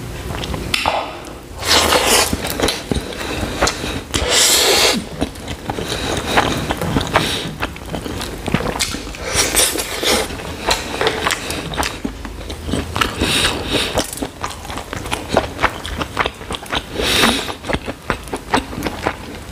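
Close-miked chewing and mouth sounds of a person eating rice and chicken curry by hand. There are many small clicks, and a louder burst every few seconds as a fresh mouthful goes in.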